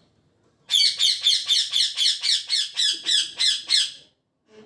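A pet parrot calling in a fast run of about a dozen sharp, high chirps, roughly four a second, starting under a second in and stopping abruptly about three seconds later.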